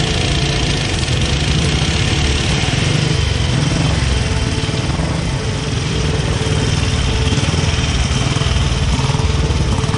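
Motorcycle engines idling steadily, a continuous low rumble without revving.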